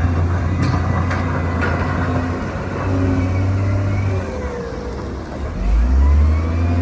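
Heavy diesel engine of an earthmoving machine working under load, surging and easing off several times with a whine rising and falling above the engine. Three sharp knocks come in the first two seconds.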